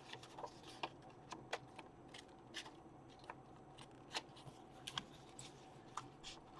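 Paper and craft materials being handled on a desk: irregular light taps, clicks and rustles, over a faint steady hum.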